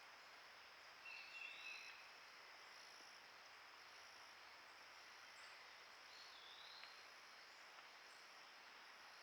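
Faint, steady high-pitched drone of insects over a background hiss, with two short swooping calls, one about a second in and another about six seconds in.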